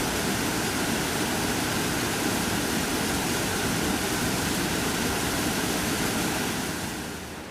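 Waterfall: a loud, steady rush of falling water, which drops in level just before the end.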